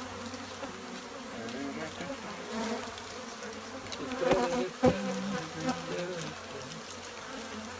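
Many Africanized honey bees buzzing in a steady, wavering drone around their disturbed hive. There is a sharp knock about five seconds in.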